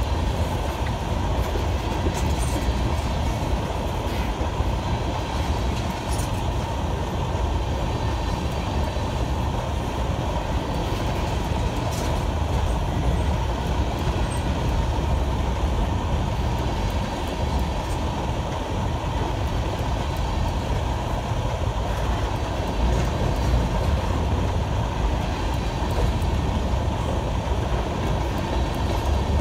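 Empty steel coal hopper cars rolling past on the rails: a steady, heavy rumble of wheels on track, with a few faint high clicks.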